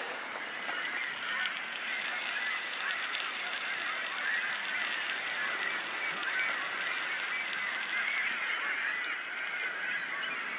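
A dense chorus of many overlapping animal calls, goose-like honks or trilling, with a steady high hiss over the middle of it.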